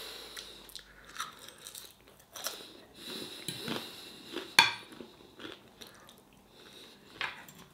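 A person chewing and biting a mouthful of chips and curry, with faint crunching and small clicks of a fork and knife on the plate. One sharp click about halfway through is the loudest sound.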